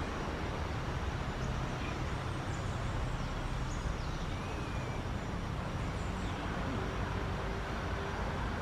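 Steady rushing outdoor background noise with a few faint, high bird chirps scattered through it.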